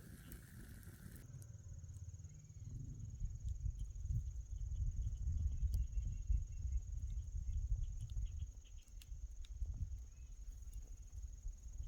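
A steady high insect trill, cricket-like, over a low rumbling of wind on the microphone, with scattered faint clicks. A hissing noise stops abruptly about a second in.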